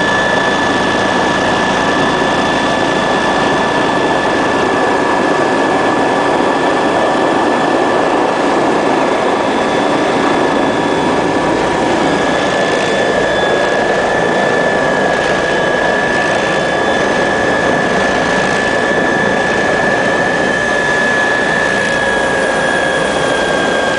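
Helicopter's turbine engine running: a steady high whine over a loud, even rushing noise.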